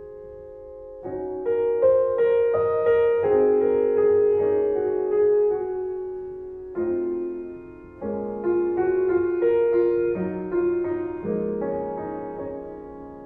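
Slow piano music: chords struck about every second or two, each left to ring and fade.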